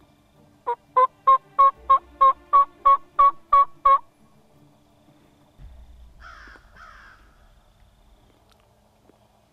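A run of about eleven loud turkey yelps, about three a second, typical of a hen-turkey yelp series used to call in an Osceola gobbler. About two seconds after the run, two shorter, higher-pitched calls follow.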